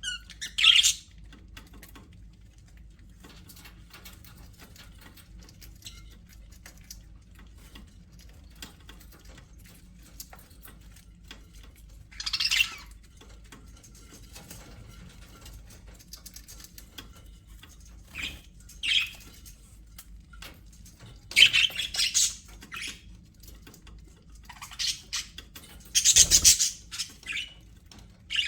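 Budgerigars giving short, harsh squawks and chirps in scattered bursts a few seconds apart, loudest and most frequent near the end, with faint chatter and clicks between. A faint low hum runs underneath.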